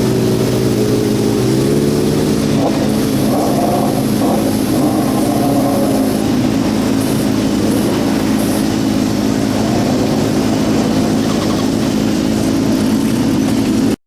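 Several racing car engines running hard together, their pitches overlapping and shifting as the cars go by. The sound cuts off abruptly at the end.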